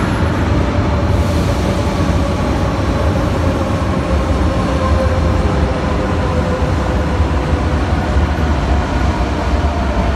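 Renfe class 447 electric commuter train arriving along the platform of an underground station: a steady loud rumble of wheels and running gear with a faint whine from the traction equipment, echoing in the enclosed station.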